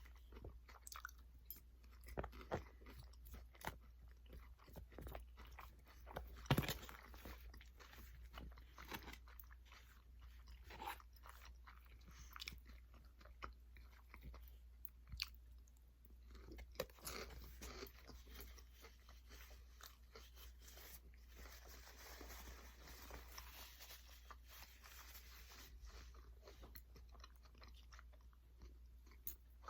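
A person chewing and biting food close to the microphone, with soft crunching and many small clicks of the mouth; one louder bite comes about six and a half seconds in.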